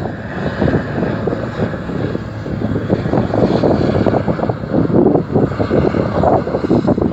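Wind buffeting the microphone over the drone of an aircraft flying past, getting a little louder toward the end.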